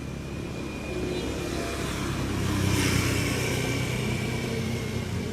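A motor vehicle engine passing by, growing louder to a peak about three seconds in and then easing off.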